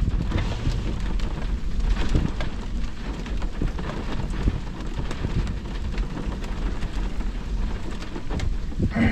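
Heavy rain falling in a thunderstorm, with many fine drop impacts over a steady low rumble of thunder.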